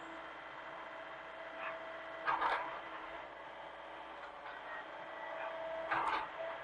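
Hitachi mini excavator running with a steady pitched hum, and two short, louder noisy bursts about two and six seconds in.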